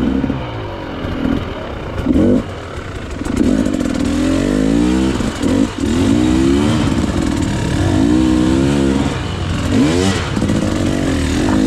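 KTM EXC 300's single-cylinder two-stroke engine revving up and down repeatedly, with several sharp throttle surges.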